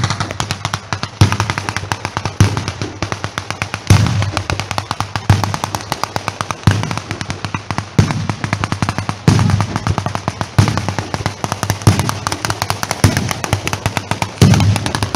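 Fireworks barrage: a dense, rapid crackle of firecrackers with heavy bangs a little over a second apart, cutting off suddenly at the end.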